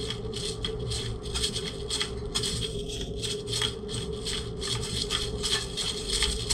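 Black pepper being added to the soup pot: a quick, irregular run of short gritty strokes, several a second, over a steady hum.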